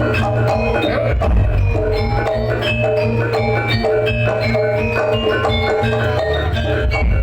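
Jaranan ensemble music played live: struck metallophones ring a quick, repeating melody of short notes over a steady low bass.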